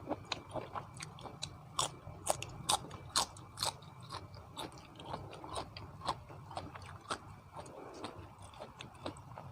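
Close-up crunching and chewing of crisp raw vegetables, a run of sharp bites and crunches about two or three a second, loudest a couple of seconds in.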